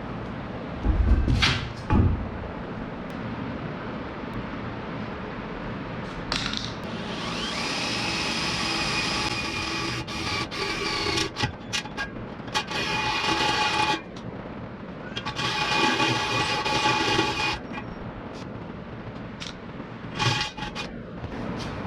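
A power tool running with a high whine in two bursts, the first several seconds long and the second shorter. A few sharp knocks come at the start.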